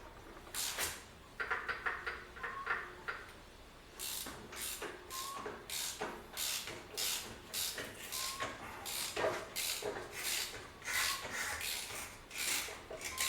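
Hand scraper scraping a stuck-on paper gasket off a metal joint face of an MTZ-82 tractor, in repeated short strokes that settle into a steady rhythm of about two a second from about four seconds in.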